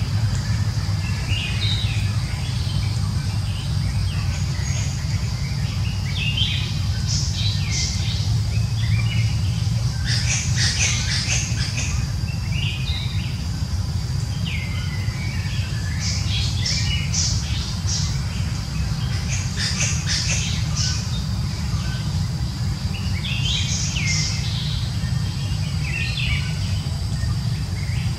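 Birds chirping in short bunches every few seconds, heaviest around the middle and again near the end, over a steady low rumble and a constant high-pitched tone.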